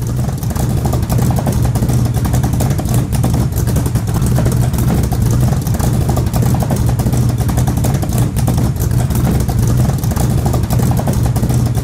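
A motor vehicle engine running loud and steady, with a dense low exhaust note.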